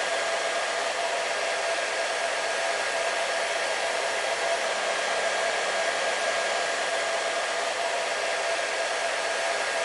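Hair dryer running steadily: a constant rushing hiss of air with a steady motor whine.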